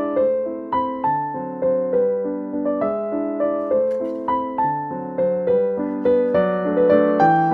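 Background piano music: a gentle melody of single notes over chords, struck at an even pace with each note fading.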